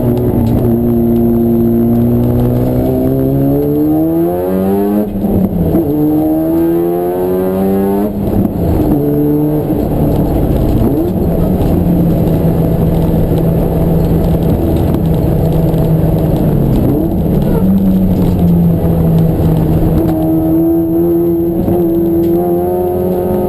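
Race car engine accelerating through the gears, its pitch climbing and dropping sharply at each upshift about four and eight seconds in. It then eases off and holds steady revs before pulling up again near the end.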